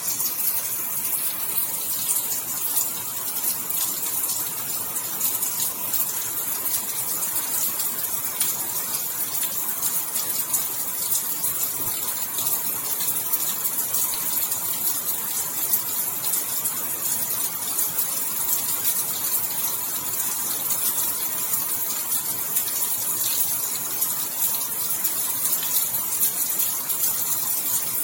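Steady rain falling: an even, bright hiss made up of many fine drop ticks, with no change in strength.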